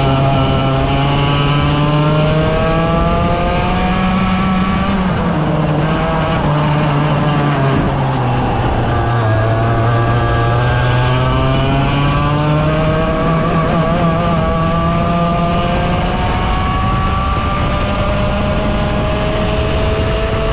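100cc racing kart engine pulling hard, its pitch climbing steadily through the revs, then falling for a few seconds, as when lifting off or braking for a corner, before climbing again. It dips once more briefly about two-thirds through and again near the end.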